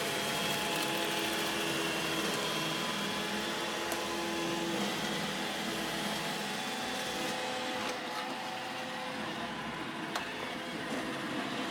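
iRobot Roomba E5 robot vacuum running, its motor and brushes making a steady whir, with a few light knocks along the way.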